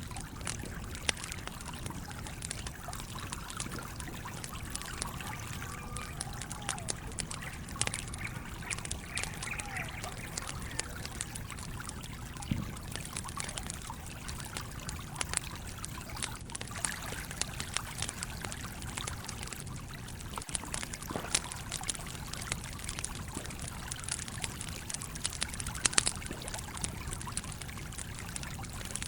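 A stream trickles and flows steadily while a campfire crackles, with frequent sharp pops scattered irregularly throughout.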